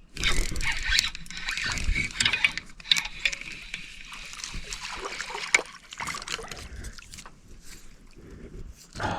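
Water splashing and sloshing against a small jon boat, a crackling hiss with scattered clicks that starts abruptly and is loudest over the first few seconds before thinning out.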